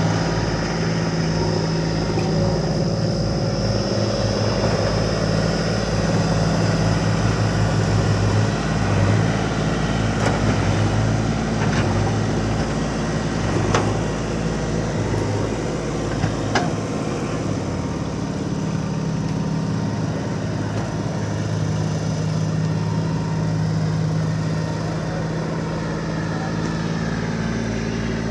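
Heavy diesel engine running steadily at a low, even speed, with a few sharp knocks near the middle.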